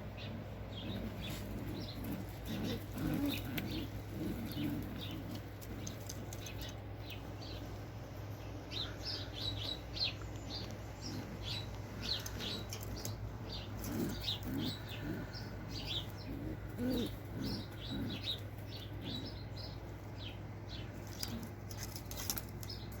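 Pigeons cooing in low, soft bursts, in two spells: a couple of seconds in and again past the middle. Wing flaps and many short, high chirps from birds run throughout.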